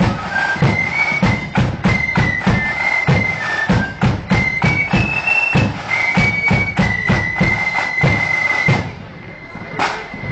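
Marching band playing a parade tune: a high melody over a heavy, regular drum beat. The drums stop about nine seconds in, leaving one last held note.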